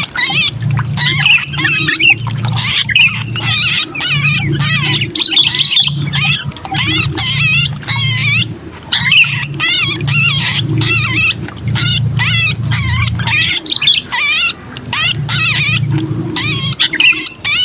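Sooty-headed bulbuls giving rapid, harsh, wavering distress calls, the 'kejepit' sound of a trapped or pinched bulbul that is used as a lure call. A low rumble runs underneath.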